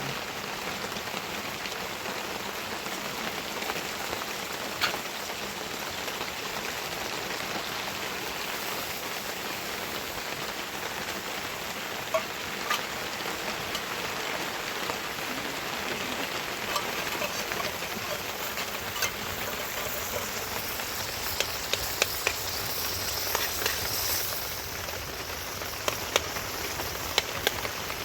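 Steady rain falling, with scattered sharper drop hits, more frequent in the second half.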